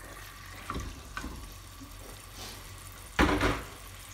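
Chicken pieces sizzling in hot melted butter in an enamelled pan, with a few soft knocks as a silicone spatula moves them about. There is one louder scrape of the spatula against the pan about three seconds in.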